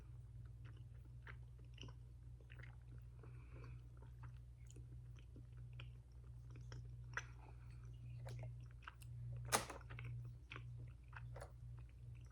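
A person chewing a soft matcha mochi filled with sweet bean paste: faint wet mouth clicks and smacks, with one sharper click about nine and a half seconds in.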